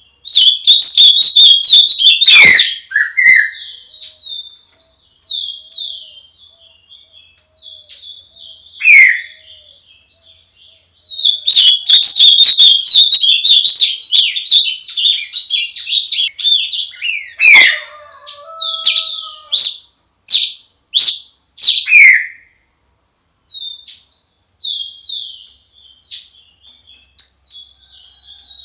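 Songbirds chirping and singing at dawn, close and loud: two long bouts of rapid high chirps and trills, and between them separate short calls that sweep downward in pitch.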